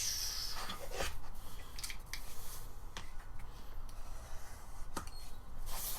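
Gasket paper being handled at a workbench: light rustling and scattered small clicks and taps.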